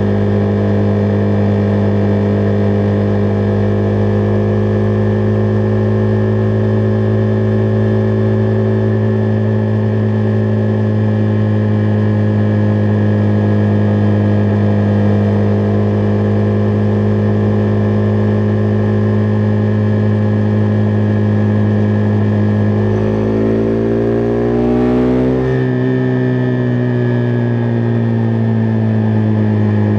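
Husqvarna Vitpilen 401's single-cylinder engine running at a steady cruise. Near the end, its note rises for a couple of seconds and then eases back down.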